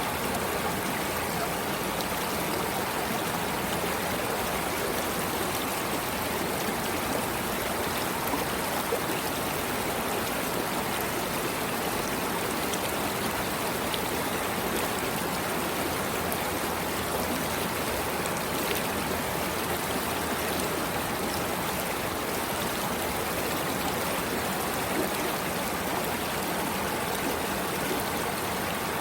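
Stream water flowing, a steady, even rushing with no change in level.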